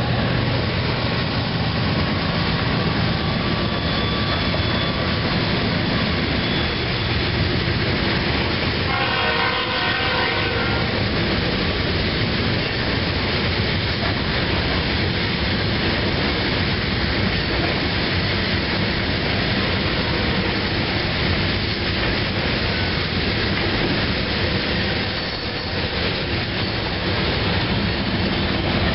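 CSX freight train's open-top hopper cars rolling past at a grade crossing: a steady rumble and rattle of wheels on the rails. A brief ringing tone lasting about two seconds comes about nine seconds in.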